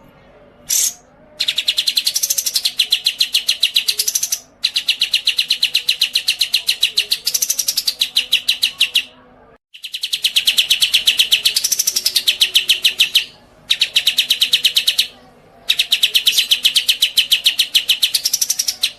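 A cage songbird singing: a short chirp, then long trills of rapidly repeated high notes, each phrase lasting several seconds with brief pauses between.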